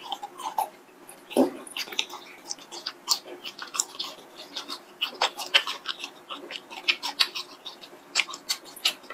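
Mouth sounds of biting and chewing a long latiao, a chewy, chilli-coated wheat-gluten snack strip: many quick, irregular clicks and smacks of lips and teeth, with one louder smack about a second and a half in.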